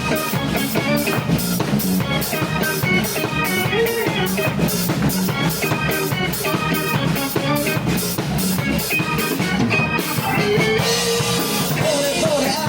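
Live rock band playing an instrumental passage: a drum kit keeps a fast, steady beat under guitar and bass. The beat eases off for a moment near the end.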